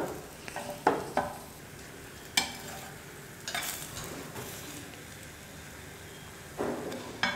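Egg-topped chapati frying on a hot dosa tawa, a steady low sizzle, with a metal spatula scraping and tapping on the griddle about six times.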